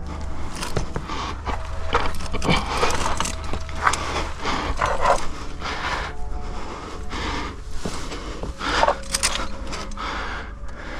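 A climber stemming up a sandstone chimney: clothing and gear scrape and rub against the rock in irregular bursts, along with hard breathing.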